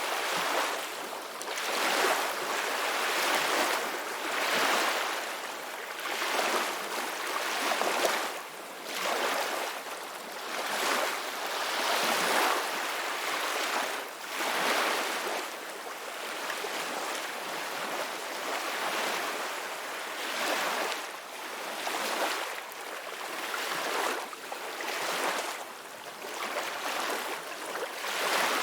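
Ocean surf: waves breaking and washing in, a hissing swell rising and falling about every two seconds.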